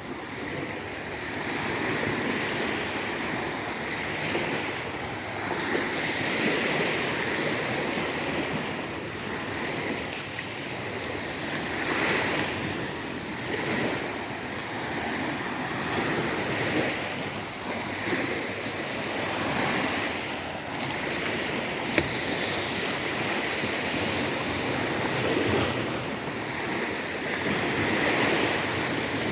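Sea waves washing onto a shore: a continuous rush of surf that swells and ebbs every few seconds, with one brief sharp click about three-quarters of the way through.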